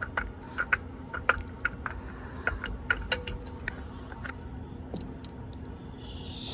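Irregular light clicks and taps of small hard objects being handled, over a steady low hum. A short hiss starts near the end.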